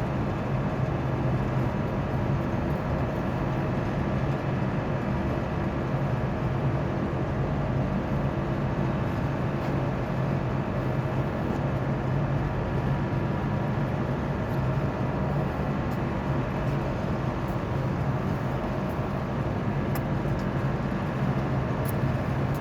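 Rooftop HVAC equipment running: a steady mechanical drone with a strong low hum and many fixed higher tones above it.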